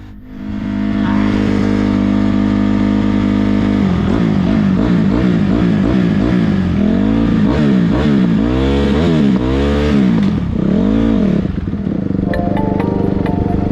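Dirt bike engine running steadily, then from about four seconds in revving up and down over and over as the throttle is opened and closed. Music comes in near the end.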